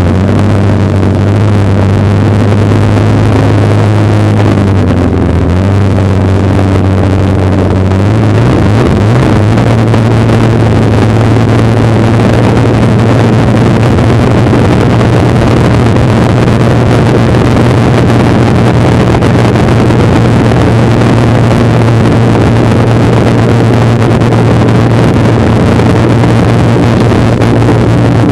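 Polaris snowmobile engine running steadily under way, with a constant rush of noise over it. Its pitch climbs about eight seconds in as the sled speeds up, then holds steady at the higher speed.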